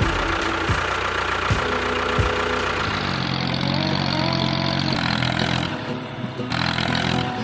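An engine-like running sound with a regular knock about every three-quarters of a second, giving way to steady held tones about halfway through.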